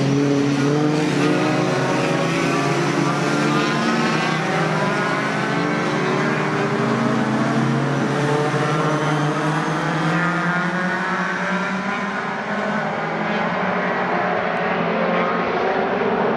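Engines of several racing pickup trucks running hard on the circuit, their pitches rising and falling as they change speed and pass.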